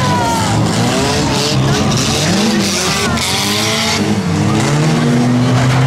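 Several car engines revving hard and easing off at once as cars race around an auto rodeo course, their pitches repeatedly rising and falling over a steady hiss.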